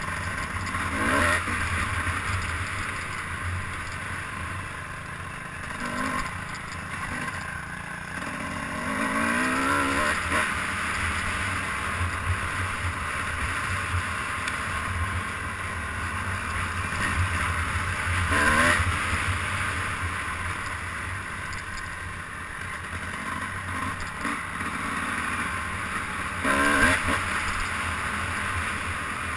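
A vehicle's engine running under way, with a brief rising rev about nine to ten seconds in and short louder knocks and clatter a few times.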